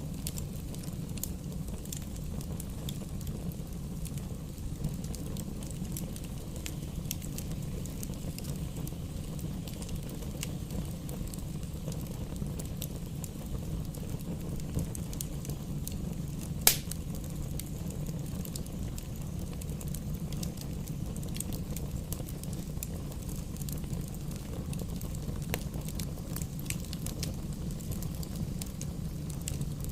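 Campfire burning: a steady low rumble with scattered small crackles and snaps, and one sharp, loud pop about two-thirds of the way through.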